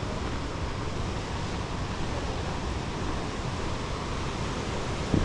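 Steady rushing of a waterfall, river water pouring over rocks, with a short low thump on the microphone near the end.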